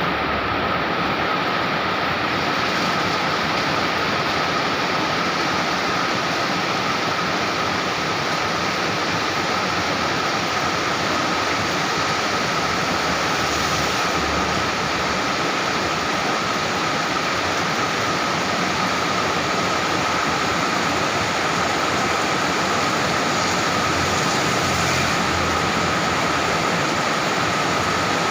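Steady rain falling: an even hiss with no break, a faint steady tone running through it.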